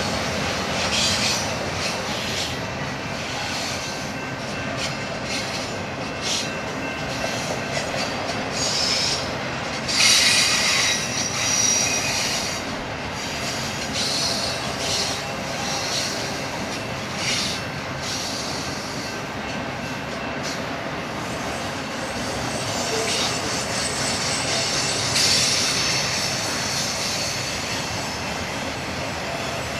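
BNSF freight train rolling past with a steady rumble of cars on the rails, its wheels squealing in high-pitched bursts, loudest about ten seconds in and again near the end.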